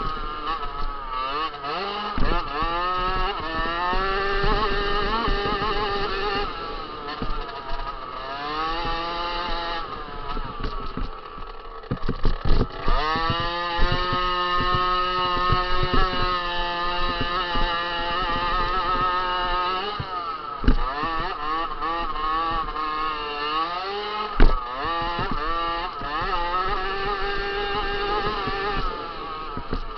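Small 50 cc two-stroke motocross bike engine revving hard, its pitch climbing and dropping again and again as the throttle opens and closes, with a few sharp knocks along the way.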